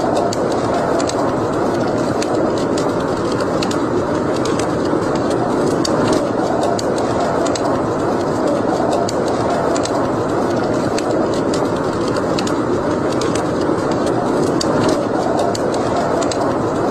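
Wood fire burning in a fireplace: a steady rushing sound with many small, irregular crackles and pops.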